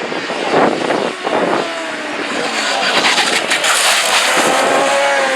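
Racing engines running at high revs as vehicles pass on track, with a pitched engine note that drops slightly in pitch near the end.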